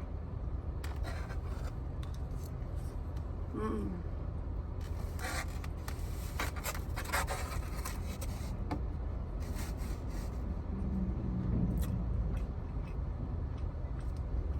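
Eating at a plate: a fork scraping and clicking against the plate, with scattered scratchy sounds thickest in the middle, over a steady low rumble.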